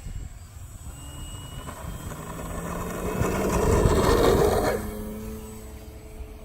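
Electric RC model plane's brushless motor and 14x8 wooden propeller running. The sound swells to its loudest about four seconds in, then drops quickly to a steady, lower hum.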